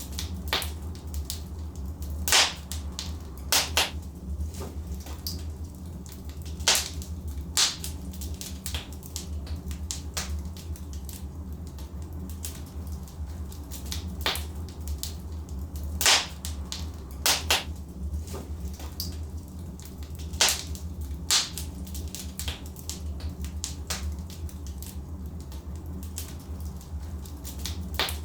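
Logs burning in a fireplace: a steady low rumble with sharp crackles and pops scattered at irregular intervals.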